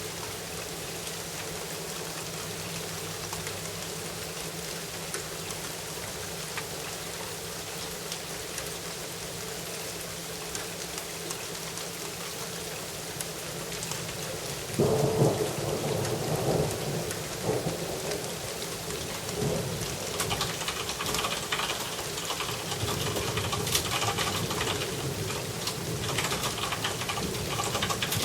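Steady rain falling, then about halfway through a thunderclap breaks in suddenly and rumbles on for several seconds. After it the rain is heavier, with many sharp drops striking a hard surface close by.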